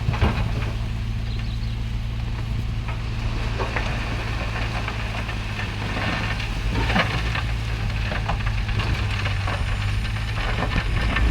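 Heavy diesel engine of an earthmoving machine running steadily, with a few sharp knocks and clanks on top.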